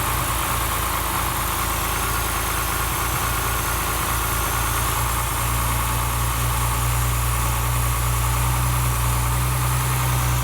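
BMW S50B32 3.2-litre straight-six race engine, built with Schrick 284 cams and 12.3:1 Wossner pistons, idling. Its note turns steadier and a little louder about halfway through.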